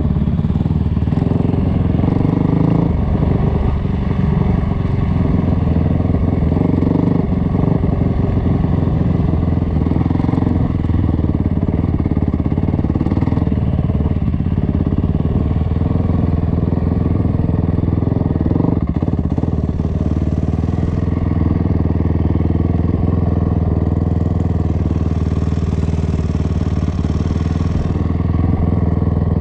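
Dirt bike engine running steadily, its pitch holding fairly level without sharp revs.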